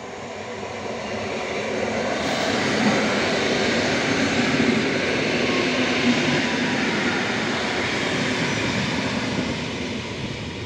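EN57AL electric multiple unit passing at speed: the noise of its wheels on the rails grows louder over the first two seconds as it nears, then stays steady and loud as the carriages go by.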